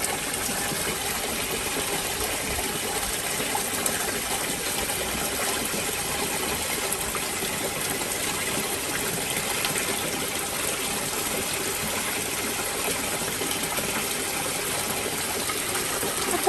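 Steady rush of running water, an even noise that holds at one level throughout.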